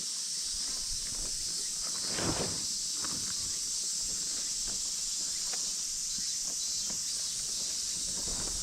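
A steady, high-pitched chorus of summer insects, with scattered rustling and small clicks and one louder rustle about two seconds in.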